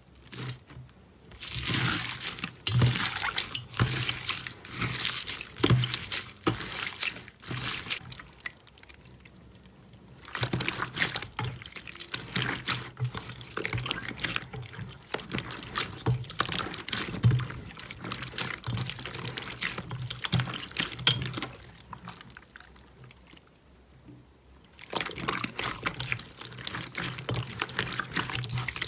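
Slime being squished and poured, with wet, sticky crackling and popping. It comes in three stretches, broken by short pauses about 10 and 24 seconds in.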